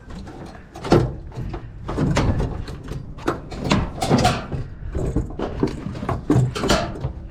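An object being crushed: an irregular run of crunches, cracks and knocks, the sharpest about a second in.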